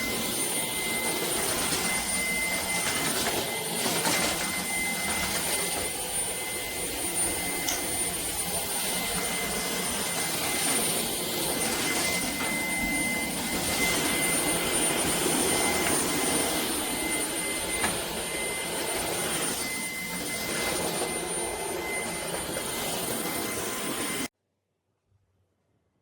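Shark PowerDetect cordless stick vacuum (IP1251) running, a steady rushing whine with a thin high tone above it, cutting off suddenly near the end.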